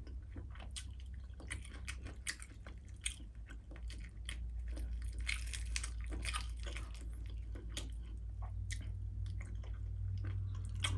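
Close-miked chewing and biting of crispy fried tilapia, with many short crisp crackles and wet mouth clicks scattered throughout. A steady low hum runs underneath and grows louder near the end.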